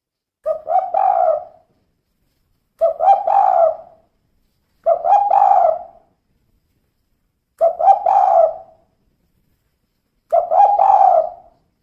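Female spotted dove cooing five times, one phrase every two to two and a half seconds. Each phrase is a short note and then a longer wavering coo.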